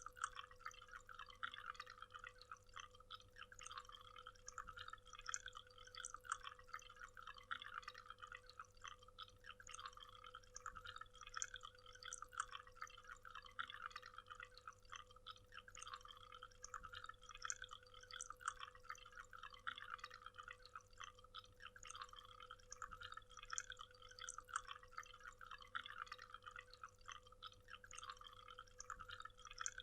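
Faint waterfall: water falling and splashing continuously, heard as a dense patter of small drips and splashes. A steady low hum runs underneath.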